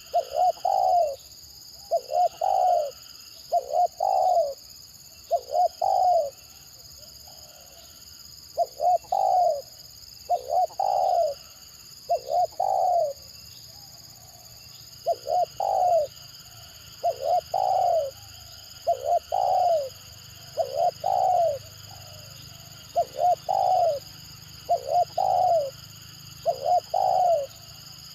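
Spotted dove giving its stuttering coo over and over: each call is a couple of quick clipped notes running into a longer note, repeated about every one and a half to two seconds, with two brief pauses.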